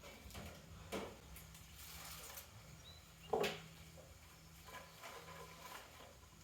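Garlic being trimmed with a pocket knife: quiet rustling of the bulbs and stalks, with two sharp crunches as the blade cuts through the roots, about a second in and a little past three seconds, the second louder.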